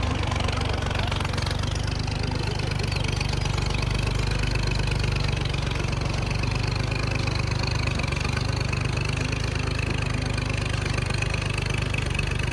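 Tractor engine running steadily with a low, fast, even throb.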